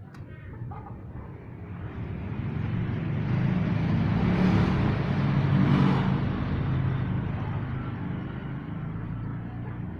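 A motor vehicle passing by, its engine and tyre noise building to a peak about halfway through and then fading away.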